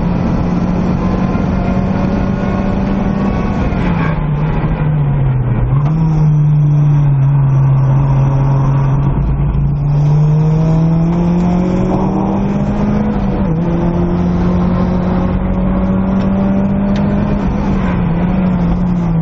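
Nissan Silvia S15 time attack car's turbocharged engine under hard driving, heard from inside the cockpit. The engine pitch falls as the car brakes and shifts down for a slow corner about four seconds in, then climbs through the gears with a sudden drop at a shift around thirteen seconds, and falls again near the end under road and wind noise.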